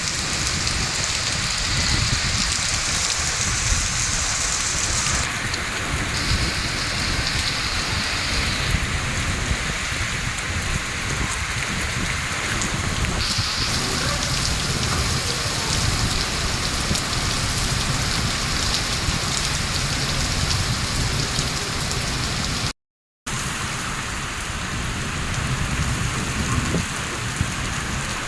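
Heavy rain falling steadily, an even hiss of downpour, with a brief dropout to silence about three-quarters of the way through.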